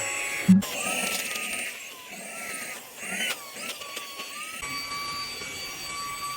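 Cordless brushless handheld vacuum cleaner running with a high motor whine. Its pitch wavers up and down at first, then holds steady from about four and a half seconds in.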